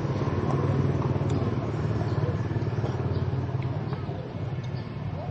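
A small motor-vehicle engine, most like a motorbike, running steadily with a low pulsing hum that eases a little after about four seconds.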